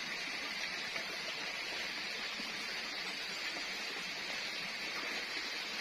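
Steady forest ambience: an even hiss with a high, shrill edge and a few faint ticks.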